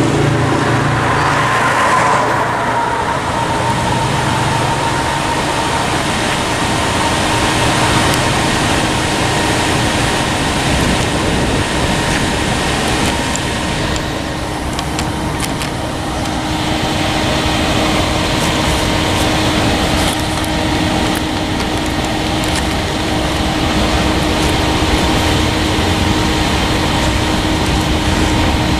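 Union Pacific manifest freight train starting to move again: a loud, continuous rumble of the train with steady tones over it, one sliding slightly down in pitch in the first few seconds and then holding.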